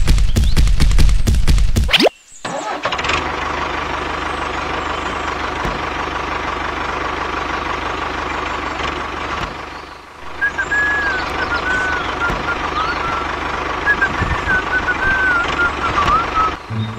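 Tractor engine starting with a loud cranking burst that rises and catches about two seconds in, then running steadily. High chirps sound over the running engine in the second half.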